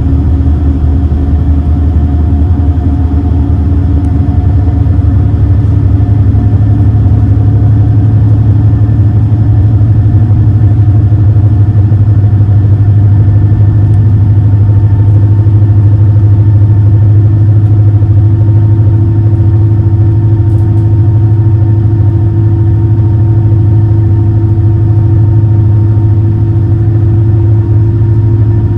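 High-speed passenger boat's engines running at cruise, a loud steady drone with a deep hum and several steady tones; a fainter higher whine creeps up slightly in pitch in the second half.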